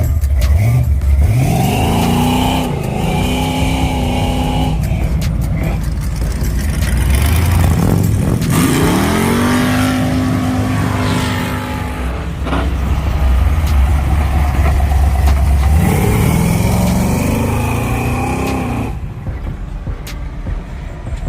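Car engine revved three times, each time climbing in pitch and then held at high revs for a few seconds before dropping back.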